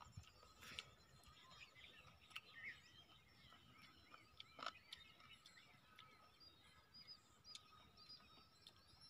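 Near silence with faint birds chirping in short repeated calls, and a few soft clicks.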